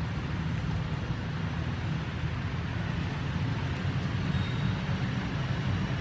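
A steady low rumble with a faint hiss, unchanging throughout.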